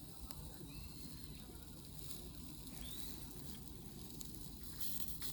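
Small wood fire burning, with a low steady rumble, a few faint pops and a brief hiss near the end.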